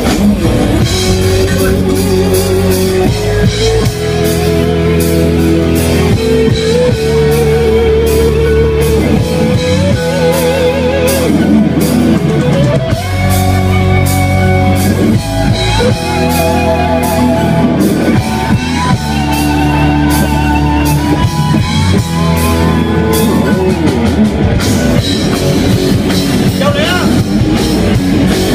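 Rock band playing live: a lead guitar melody with bends and vibrato over bass and a drum kit.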